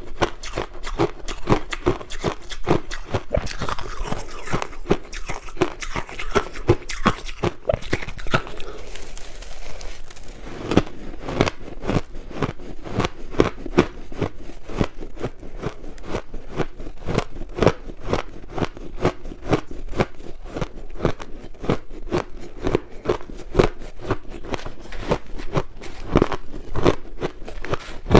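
Crushed ice being bitten and chewed close to the microphone: a steady run of crisp crunches, several a second, that eases off briefly about nine seconds in.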